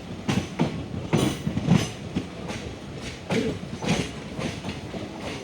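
A train running along the track, its wheels clacking irregularly over the rail joints above a steady low rumble, with a cluster of louder clacks between one and two seconds in.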